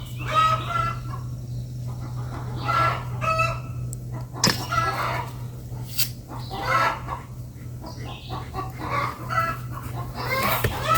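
Chickens clucking, with a rooster crowing, in a string of short calls over a steady low hum.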